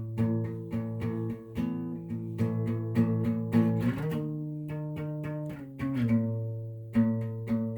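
Guitar music: a run of plucked notes over held low notes, moving to a new chord about four seconds in.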